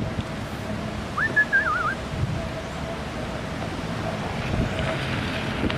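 Wind rushing over the microphone, with one short whistled bird call about a second in that rises and then wavers.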